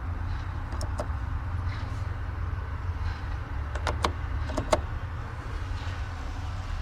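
Steady low rumble in a car cabin, with a few sharp clicks about a second in and a cluster of clicks between four and five seconds in.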